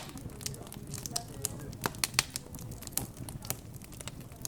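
Wood fire crackling in a fireplace, with sharp, irregular pops several times a second and a few louder snaps, over a low murmur of background chatter.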